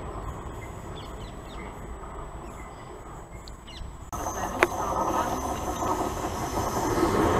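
A passing train's low rumble, fading away. Then it changes abruptly to a Southern electric multiple-unit train approaching the platform, its rumble growing steadily louder, with one sharp click about half a second after the change.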